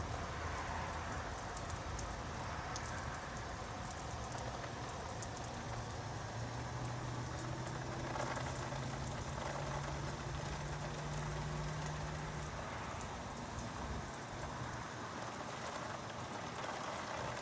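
Steady rushing noise of wind over a phone microphone, with a low steady hum through the middle few seconds.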